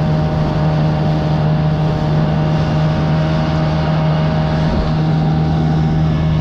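Boat's outboard motor running steadily at a constant pitch, under an even rush of noise.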